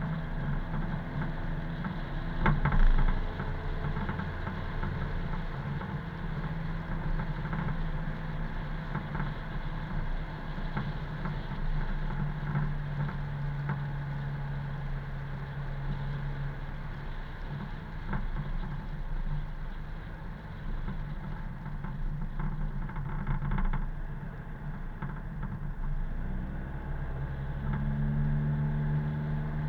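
Car engine running while driving on the road, with steady road noise under it. The engine note fades about halfway through and comes back strongly near the end, and there is a short knock about three seconds in.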